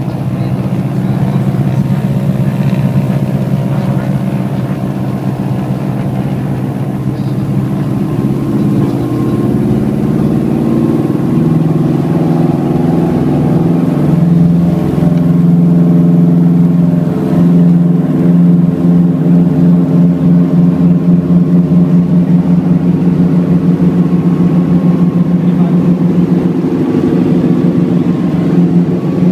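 Piper Seneca's twin piston engines running loud inside the cabin, coming up to takeoff power about halfway through, then holding a steady drone with a regular pulsing.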